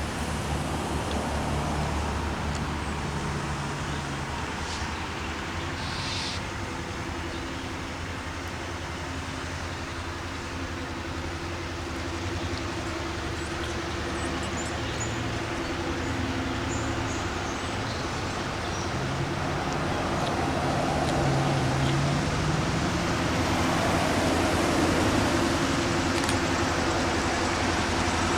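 Diesel locomotive engine running with a steady low hum whose pitch steps up and down now and then, growing louder toward the end.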